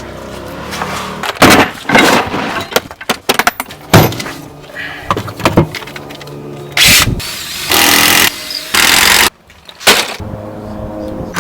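Repair work on a workshop: a run of sharp knocks, clatter and breaking sounds, then about halfway through three short, loud bursts of a power tool.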